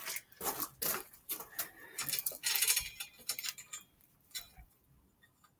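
Light metal clinks, ticks and rattles from BMX bike parts being handled during assembly, irregular and busiest in the first few seconds, thinning to a few faint ticks near the end.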